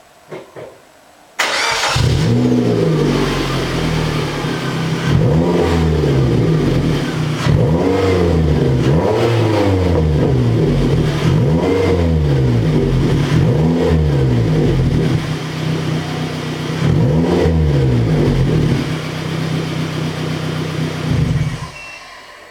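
Suzuki Swift 1300's engine through a stainless race sport exhaust: it starts about a second and a half in, idles and is revved in repeated short blips, then shuts off near the end.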